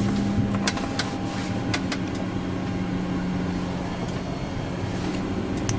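Steady drone of an airliner's flight deck while it is towed, with a held low hum and a few sharp clicks in the first two seconds and again near the end, as radio switches are worked to change frequency.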